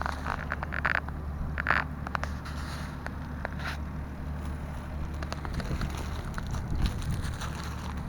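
New Holland TL100's 3.9-litre four-cylinder diesel engine running steadily under load, with scattered short crackles and rustles over it.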